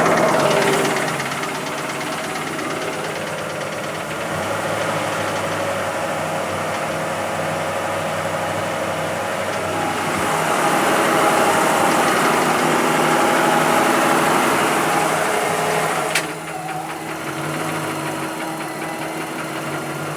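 Ford 302 V8 running with a knock that the owner cannot place and is asking about. It gets louder for a few seconds in the middle, then a single sharp click comes near the end and the engine runs quieter after it.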